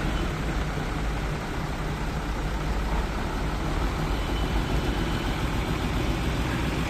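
Mahindra tractor engine running steadily with a low, even drone.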